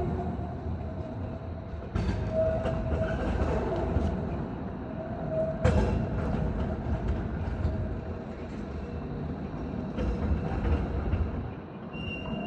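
Vienna tram running along its rails: a steady low rumble with a faint held whine, sharp knocks as the wheels pass rail joints or points about two, six and ten seconds in, and a thin high tone near the end.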